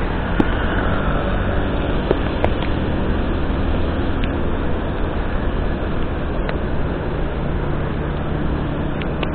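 Steady noise of a vehicle driving on a wet road in the rain: a low engine drone under tyre and rain hiss, with a few sharp clicks.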